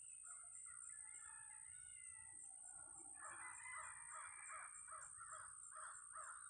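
Faint outdoor birdsong, then from about three seconds in a crow cawing repeatedly, about two or three caws a second. A steady high-pitched whine runs underneath.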